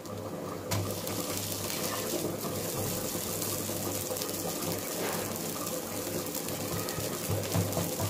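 Ragi dosa frying in oil on a hot griddle: a steady sizzling hiss that gets louder about a second in, with a low steady hum underneath.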